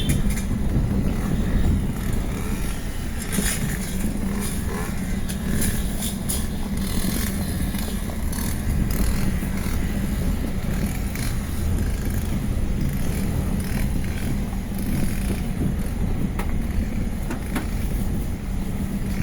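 A motor running steadily with a low rumble, with wind noise on the microphone and scattered light clicks.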